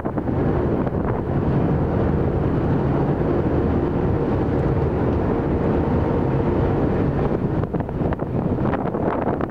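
Steady low drone of a car ferry under way, with a faint steady hum in it. Wind buffets the microphone in gusts near the end.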